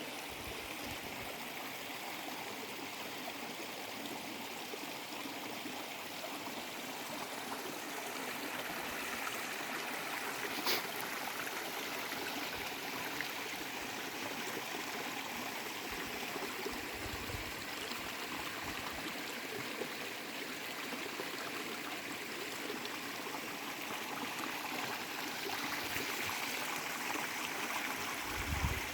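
Running water of a stream, a steady rushing, with one sharp click about ten seconds in and a few brief low bumps later on.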